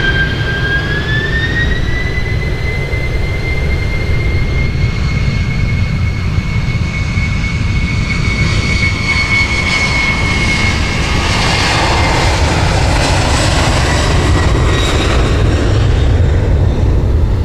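Jet airliner's turbofan engines: a high whine that rises in pitch about a second in and holds steady, then fades from around ten seconds in as a broader rushing noise peaks, over a steady low rumble.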